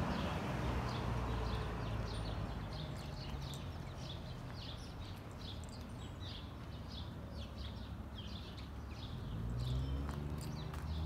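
Small birds chirping, a quick run of short high chirps over faint outdoor background noise. A low hum rises near the end.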